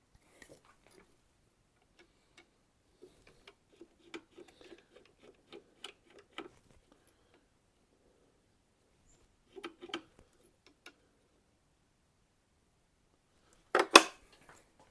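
Handling of a knife-sharpening jig and its angle-setting gear, with the grinder not running: scattered light clicks and taps, then one sharp, loud clatter near the end.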